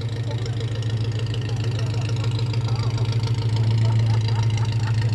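A car engine idling steadily, with an even, low pulsing note that swells slightly about four seconds in.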